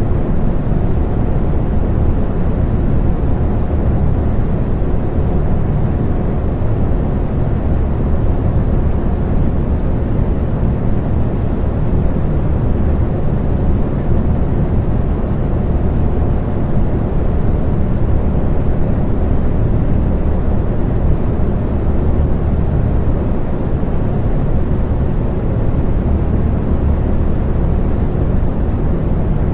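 Electric fan running steadily: a constant low whooshing rumble of moving air with a faint hum, no changes.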